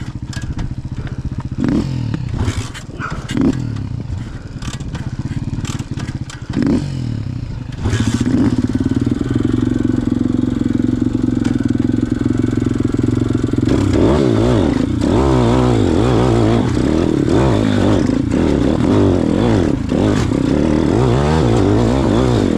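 Pit bike engine while riding off-road. For the first several seconds it runs low under clattering knocks. About eight seconds in it gets louder and steadier, and from about fourteen seconds in its pitch goes up and down as it revs.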